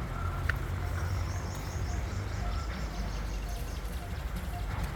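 Birds chirping in the open, one repeating a short note over and over, over a steady low rumble.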